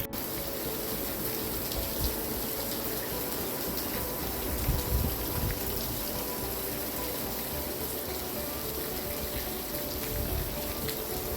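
Steady heavy rain pouring down on an overhang roof, a constant hiss, with soft background music of held notes underneath and a brief low rumble about five seconds in.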